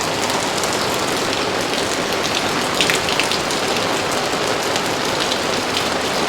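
Heavy rain falling and splashing on hard surfaces: a steady, fairly loud hiss with scattered sharp drops landing close by.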